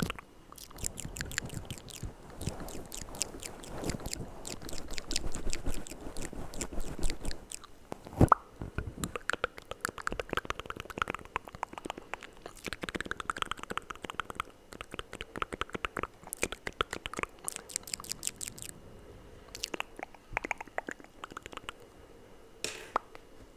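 ASMR mouth sounds close to the microphone: rapid wet clicks and smacks in dense runs, with short pauses between them.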